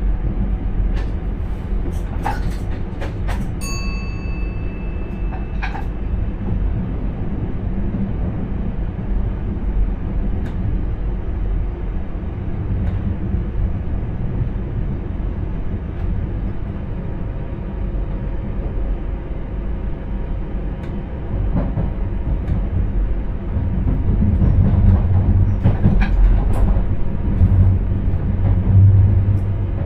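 Inside an intercity train's driver's cab: steady low rumble of the running train, with a few clicks and a short two-second beep a few seconds in. The rumble grows louder near the end.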